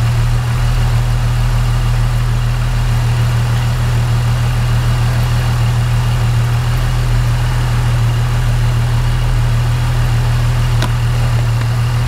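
Supercharged L67 3.8-litre V6 in a Holden Commodore idling steadily, left running so that trapped air in the cooling system works its way up to the radiator's bleed point.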